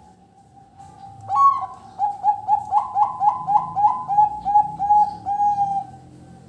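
Zebra dove (perkutut) cooing: a loud opening note about a second in, then a quick rhythmic string of about a dozen short coos, three to four a second, that fade away near the end.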